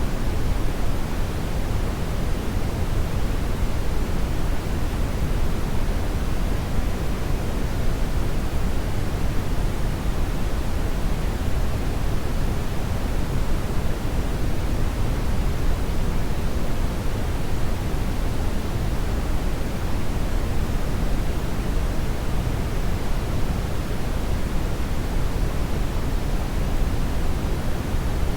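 Hair dryer running steadily: an even, unbroken rush of blown air with no change in pitch or level, heaviest in the low end.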